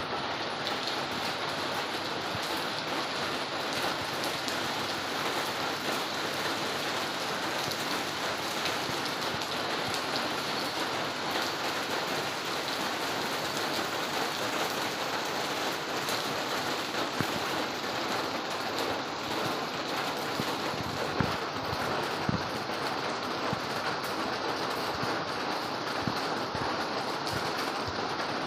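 Steady rain falling, an even hiss of drops with a few louder single taps standing out now and then.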